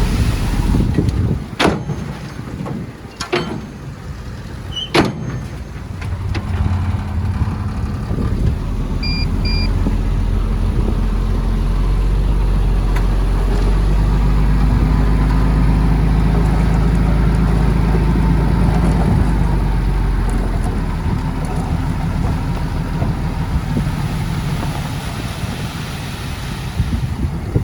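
Heavy-equipment diesel engine running under load, building up about ten seconds in and easing off again after about twenty seconds, with three sharp metallic clanks in the first five seconds and two short beeps about nine seconds in.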